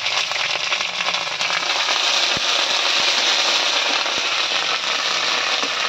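Ginger and garlic paste sizzling and spattering in hot mustard oil in a kadai, a steady hiss with crackling pops. A few light knocks of the spatula against the pan as it is stirred.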